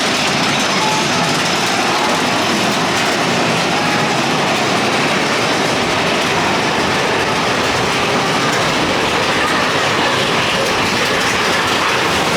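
Big Thunder Mountain Railroad mine-train roller coaster running along its track at speed: a steady, loud rattle and clatter of the cars' wheels on the rails.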